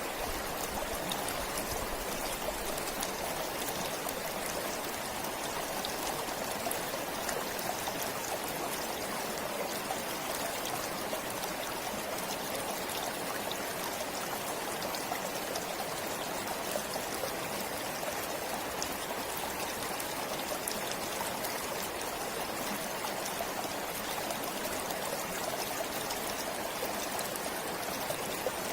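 A stream flowing steadily with an even rush of water, flecked with small, quick splashes and drips.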